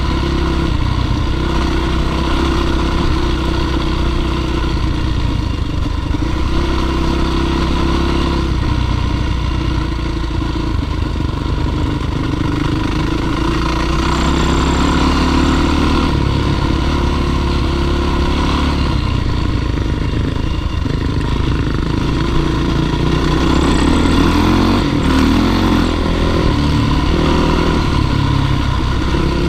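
Dirt bike engine running hard on a climb, its pitch rising and falling as the throttle is worked.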